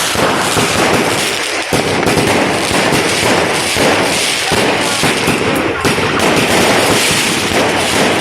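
Dense street fireworks and firecrackers going off all around: a continuous barrage of rapid, overlapping bangs and crackling with no let-up.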